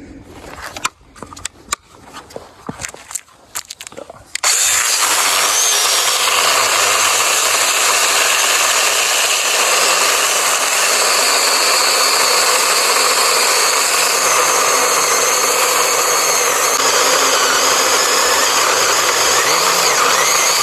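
A few clicks and knocks of the saw being handled, then an 8-inch mini cordless chainsaw starts about four seconds in and runs steadily while cutting wood, stopping suddenly at the end. Its chain tends to loosen under this load because the spring tensioner is weak.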